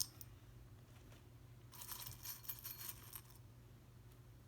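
Small stones clicking and clinking together as they are handled and set down: a cluster of light rattling clicks lasting about a second and a half in the middle.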